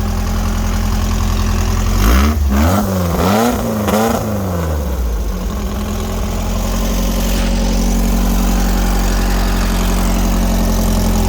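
Cold-started VW sandrail engine idling, given a quick series of throttle blips about two seconds in that rise and fall in pitch, then settling back into a steady idle while still cold.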